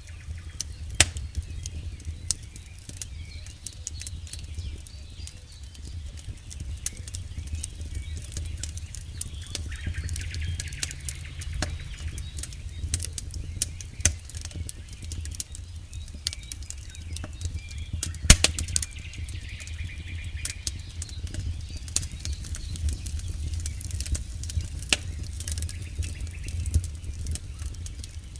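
Campfire burning: frequent sharp pops and snaps of burning wood over a low, steady rumble of the flames, with one louder snap a little past the middle.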